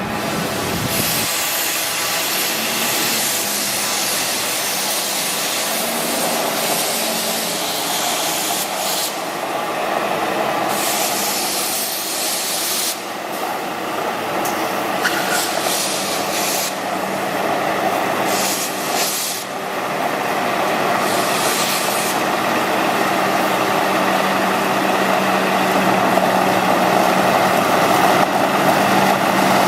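Water hissing out of a water truck's spray heads, fed by the PTO pump, over the steady hum of the truck's diesel engine. The spray noise drops and comes back several times as heads are switched.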